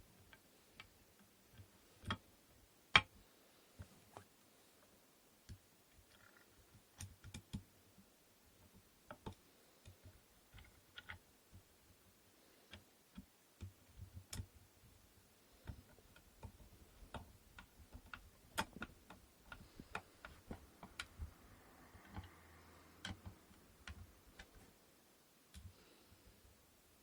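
Irregular small clicks and knocks of wooden inkle loom parts being handled and fitted together, with one sharper knock about three seconds in and the taps coming more often in the second half.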